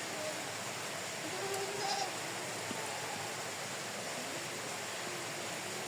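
Steady rushing outdoor noise, with faint, distant, wavering pitched sounds in the background.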